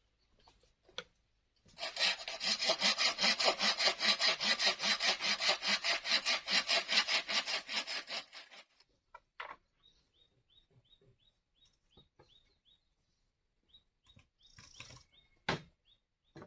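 Hand saw cutting wood, with quick, even back-and-forth strokes for about six seconds before it stops. Afterwards there is a run of short, high chirps, a few a second, and a couple of sharp knocks near the end.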